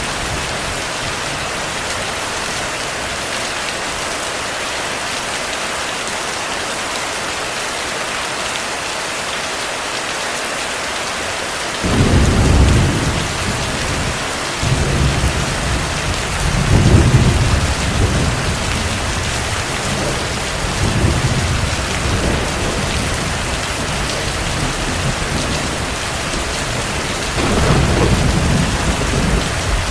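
Steady heavy rain. About twelve seconds in, thunder starts rumbling in repeated low rolls, loudest near the middle and again near the end.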